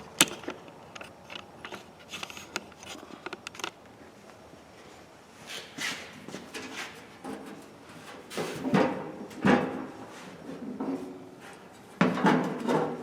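Handling of an old Craftsman toolbox during dent work: scattered clicks and knocks, then several louder bursts of scraping and knocking on the box, the loudest near the end.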